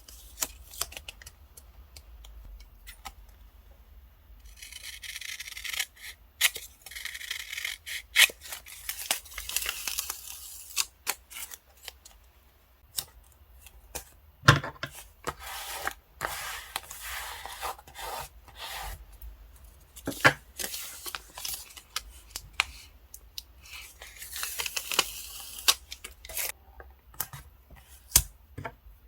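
Hands working with paper and stickers for journaling: scratchy tearing and peeling of paper in two longer stretches, about five seconds in and again around twenty-four seconds, between scattered taps, clicks and rustles.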